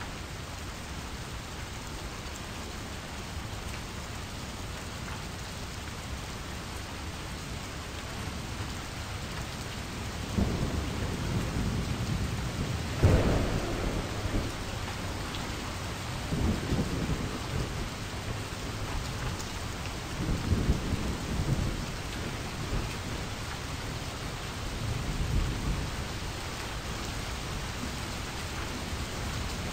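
Steady rain with about five rolls of thunder. The loudest roll starts suddenly almost halfway through.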